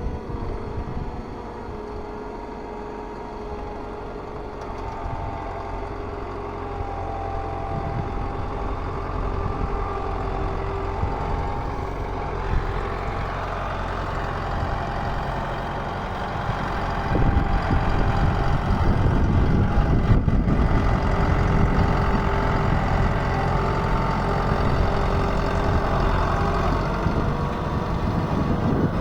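Ford 7610 tractor's four-cylinder diesel engine running steadily while pulling a plough, growing louder with a deeper rumble a little past the halfway point.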